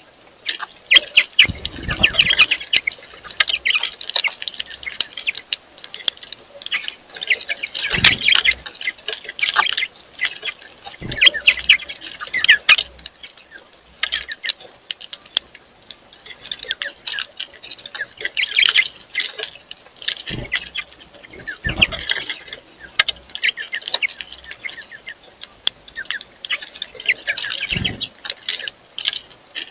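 Birds chirping over and over in short, high calls, mixed with scattered sharp taps and a few dull thumps.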